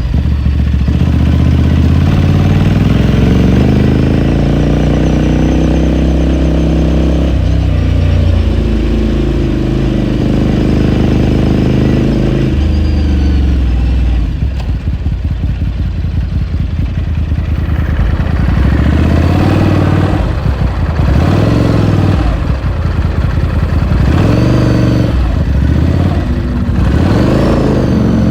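Ducati Scrambler Sixty2's 399 cc air-cooled L-twin engine heard onboard while riding. It pulls steadily at moderate revs for about twelve seconds, drops to a low uneven rumble off the throttle, then the revs climb and fall several times in quick succession near the end.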